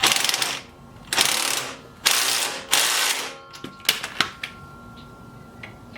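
Socket ratchet wrench clicking in four strokes of about half a second each while a bolt on a mini bike is tightened, followed by a few light metal clicks.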